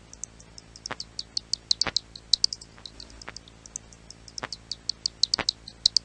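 Roosting flying foxes (fruit bats) chirping and squeaking: a dense, continuous run of short, high-pitched chirps with a few sharp clicks scattered through.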